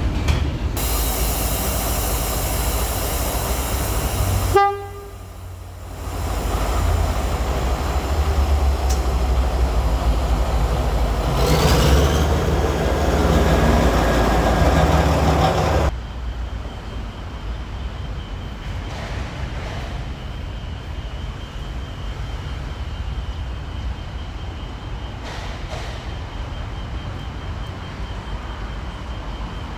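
Diesel locomotive horn sounding for a few seconds, then the locomotive's engine rumbling for about ten seconds as it hauls the train; after a sudden cut, a quieter steady background noise.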